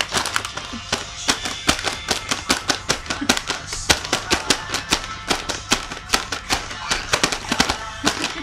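Snare drum struck in quick, uneven sharp hits, several a second, with no steady beat.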